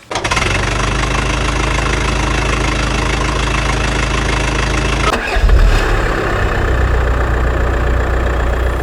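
A vehicle engine starts suddenly and runs steadily with a low-pitched hum. About five seconds in its note shifts lower and gets louder, as if revved.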